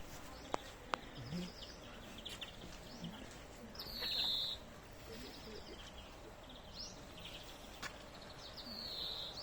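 Several small aviary birds chirping and twittering. A louder call falling in pitch comes twice, about four seconds in and near the end, and two sharp clicks sound in the first second.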